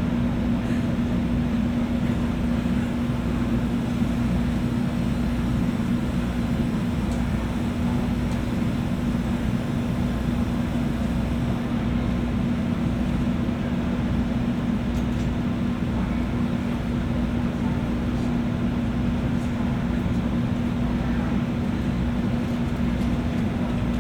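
JR West 201 series electric train standing at a platform, its onboard equipment giving a steady hum with one constant low tone and a low rumble. There is no rise or fall of motor sound.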